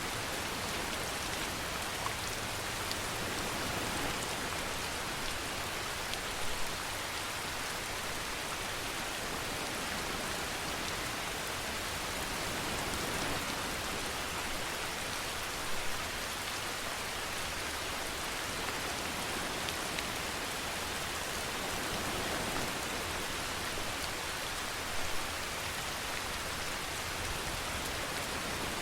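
Steady rainfall, an even hiss, with a few brief louder drop splashes standing out now and then.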